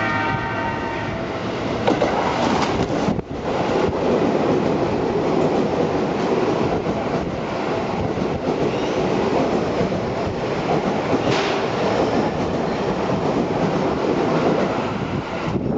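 Seibu 20000 series electric train running through a station without stopping: the tail of its warning horn, sounded for track workers, ends about a second in, then the loud, steady noise of the train passing continues until near the end.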